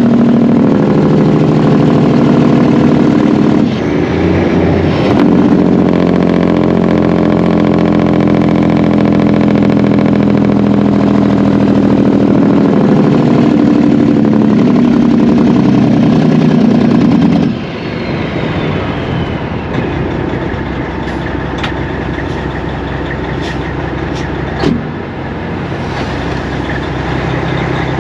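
Semi-truck diesel engine running steadily under load. About two-thirds through, the engine note drops off suddenly and it runs quieter, with a few light clicks and one sharp knock near the end.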